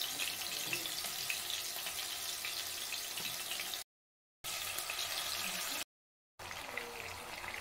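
Marinated chicken pieces frying in hot oil in a nonstick kadai on low heat: a steady, even sizzle with fine crackling. The sound drops out completely twice, briefly, about four and six seconds in.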